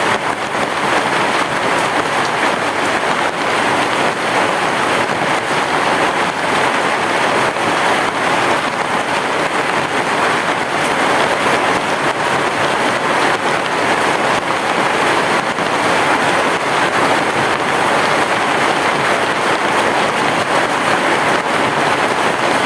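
Heavy rain falling, a dense, steady hiss with no letup.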